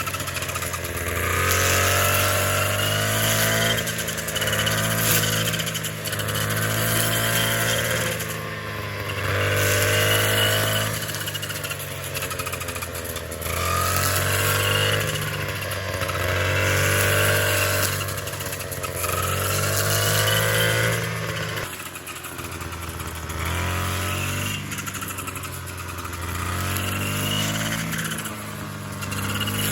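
A small engine running and repeatedly revving up and easing off, in even cycles about every two to three seconds.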